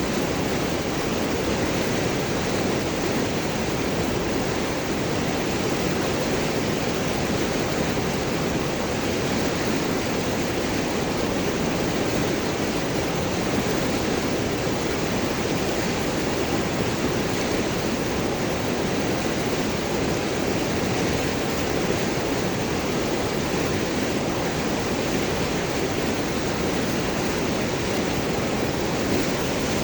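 River water flowing and gurgling over and around large rocks, a steady unbroken rush.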